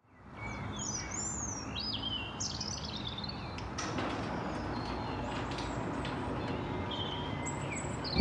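Outdoor ambience fading in: birds chirping and whistling, busiest in the first couple of seconds and again near the end, over a steady low hiss and rumble.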